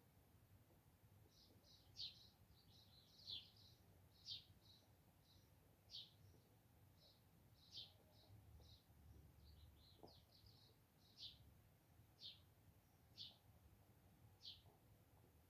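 Songbird chirping: short, high, downward-sliding chirps about once a second, with softer twittering notes between them, faint.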